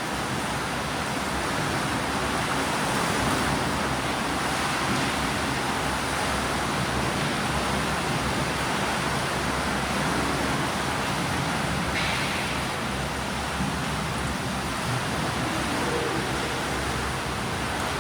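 Steady wash of pool water noise as swimmers do breaststroke drills, splashing and churning without a break.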